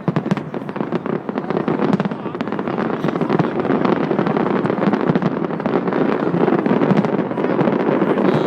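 Fireworks going off: rapid overlapping cracks and pops that thicken into a dense, continuous crackle, growing louder toward the end.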